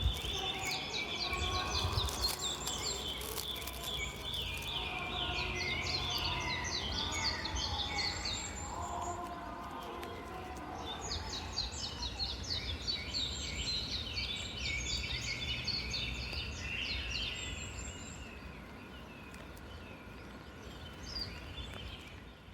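Several wild songbirds chirping and singing at once in a dense chorus, over a steady low rumble. The birdsong pauses briefly about halfway through and thins out near the end.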